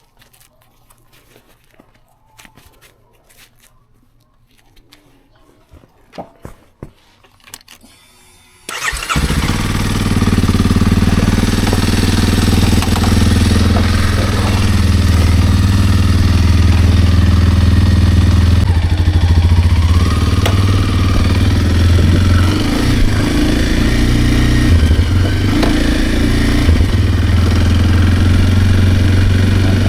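Kawasaki KLX230R dirt bike's single-cylinder four-stroke engine starting. After several seconds of quiet with a few faint clicks and knocks, it catches suddenly about nine seconds in and runs steadily at a loud, low idle.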